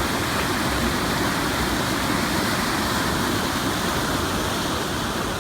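Floodwater rushing steadily through a swollen creek that is rising toward the top of its banks and wall.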